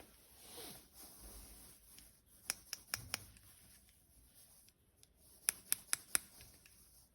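Toy parts being handled: a soft rustle, then two quick runs of four sharp clicks, a few seconds apart.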